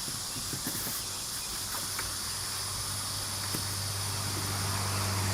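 Insects chirring steadily at a high pitch, with a low hum that grows louder over the last couple of seconds.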